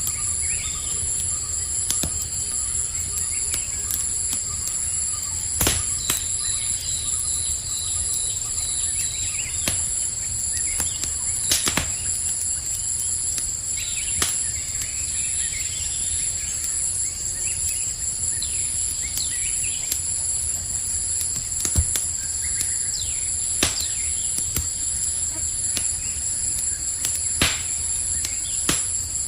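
Campfire crackling, with sharp pops every few seconds over a steady low rumble, while crickets trill on without a break at high pitch. Now and then a bird chirps faintly.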